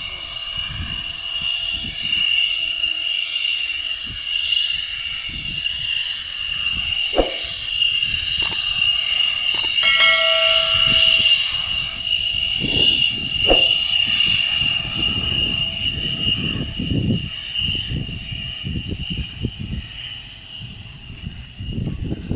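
F-16 Fighting Falcon jet engine running, a steady high-pitched whine over a rumble that swells and fades. A few sharp clicks sound between about seven and ten seconds in.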